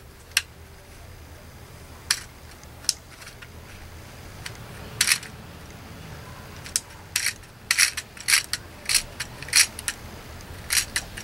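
Sharp clicks and taps of small plastic parts being handled and pried apart inside a plastic toy chainsaw. Sparse at first, then more frequent in the second half.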